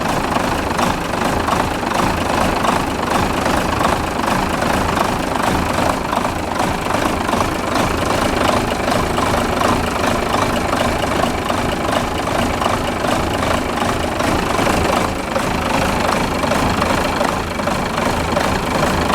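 Renault Major truck's MIDR diesel engine idling steadily with the cab tilted up, running smooth and even after its injectors were repaired.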